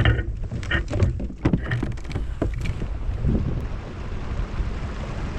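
Several knocks and clatters, as of gear being handled against a kayak's hull, in the first few seconds. Steady wind rumbling on the microphone throughout.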